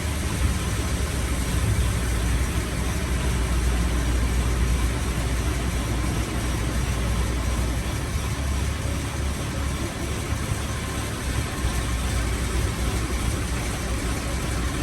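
Boat engine running steadily under way, with a wash of wind and water noise.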